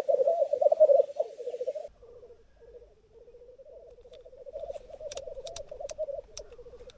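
Black grouse males rookooing at a lek: a continuous bubbling, cooing chorus, loud for about the first two seconds and then fainter. A few sharp clicks come about five to six seconds in.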